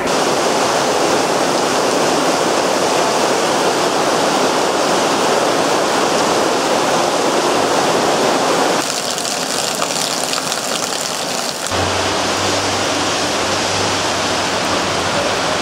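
Heavy thunderstorm downpour, rain only with no hail, falling steadily and hard. The sound changes abruptly about nine seconds in and again near twelve seconds, when a low steady hum joins the rain.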